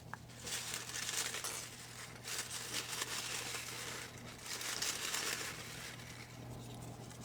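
Folded slips of paper crinkling and rustling as they are handled, in three spells of a second or two each, over a faint steady low hum.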